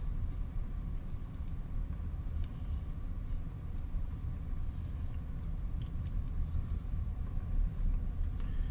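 Steady low rumble of a car, heard from inside its cabin, with a faint steady whine above it.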